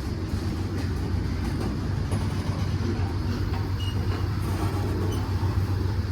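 Freight train rolling past with a steady low rumble of wheels and cars.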